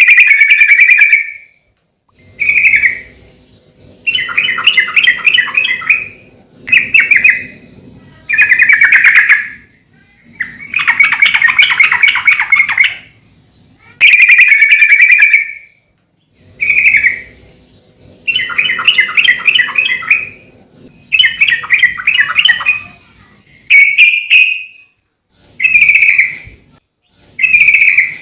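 Yellow-vented bulbul (trucukan) singing loudly in a string of short, bubbly chattering phrases, one every couple of seconds, each lasting a second or two.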